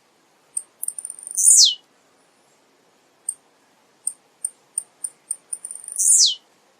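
Male blue-black grassquit (tiziu) singing: a run of short high ticks builds into a loud, steeply falling note. The phrase comes twice, about a second and a half in and again near the end.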